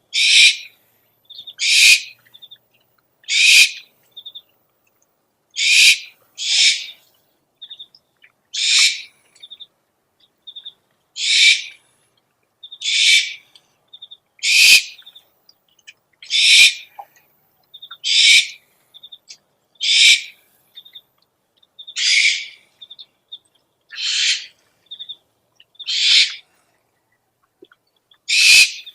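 Owl screeching: a harsh, hissing screech about every two seconds, some sixteen in all, with short faint whistled notes between them.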